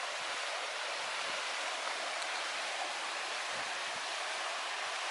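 Steady rushing of running water from a creek, even and unbroken.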